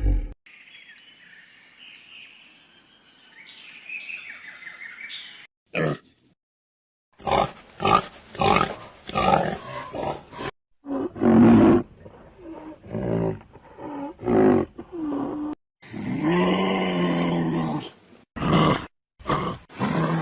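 A string of animal calls and grunts, cut together in short clips with sudden silent gaps between them; a fainter stretch of small high calls opens it, followed by louder repeated grunt-like and roar-like calls.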